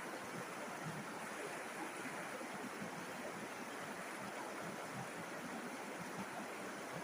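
River water flowing, a steady even rush with no distinct splashes.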